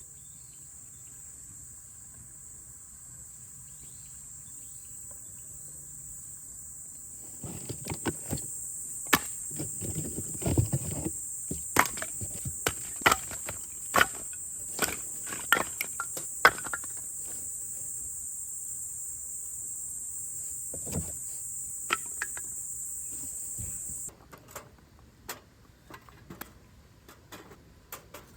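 Crickets chirping in a steady high-pitched chorus that stops abruptly near the end. From about a quarter of the way in, it is joined by irregular clicks, knocks and clatter of objects being handled.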